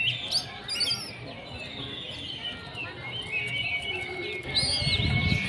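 Oriental magpie-robin singing: a run of varied quick chirps and whistles, then one long held whistle over the last two seconds. A low rumble comes in near the end.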